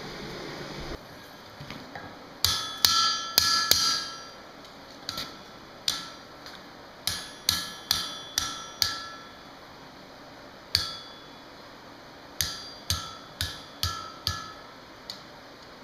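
Blacksmith's hammer striking steel on an anvil in uneven runs of blows, each strike ringing briefly, some heavy and some light taps, while forging a scroll. A steady rushing noise stops about a second in.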